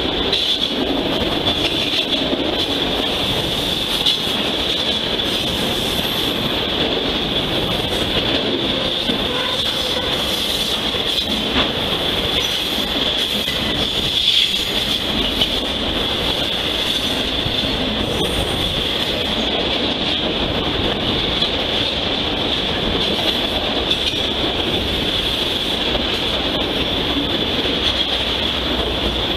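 Autorack cars of a CSX freight train rolling past close by: a steady rumble of steel wheels on rail under a continuous high-pitched wheel squeal, with an occasional louder clack from the wheels, the plainest about halfway through.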